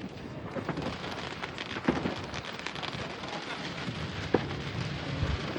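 Fireworks going off, irregular booms and cracks over a steady background rumble, the loudest about two seconds in and again just past four seconds.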